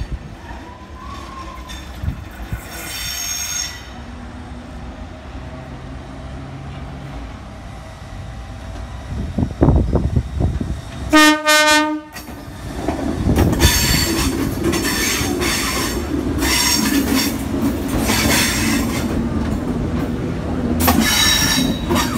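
Red Set F1 heritage electric train arriving at a platform. About halfway through it gives one short horn blast of about a second. After that the train runs past, much louder, with its wheels squealing on the rails.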